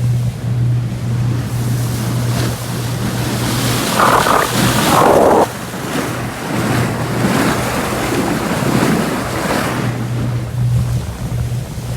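Boat under way at sea: a steady low engine hum under rushing water and wind buffeting the microphone, with a louder surge of noise about four seconds in that cuts off suddenly.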